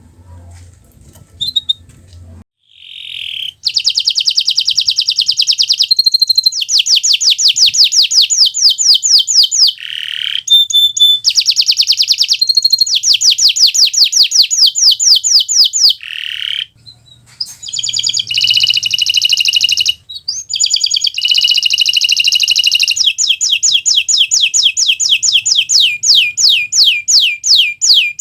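Domestic canary (Kenari Nusantara) singing loudly and continuously from about three seconds in. Its song is long, rapid trills of evenly repeated high notes, with short pauses between phrases and a few sliding whistles.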